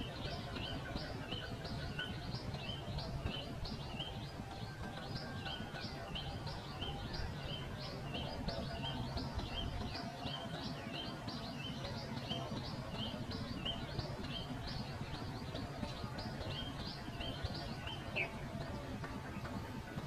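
Pipit calling over and over: short, high chirps about two a second in a very regular series that breaks up near the end, over a low background rumble.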